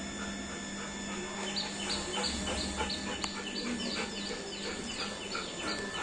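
A bird chirping: a rapid run of short, falling chirps, about three a second, beginning a second and a half in.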